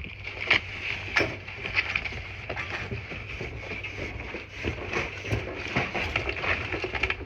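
Irregular taps, knocks and rustles of cardboard and styrofoam packing being handled and pulled away from a refrigerator, over a steady background hum.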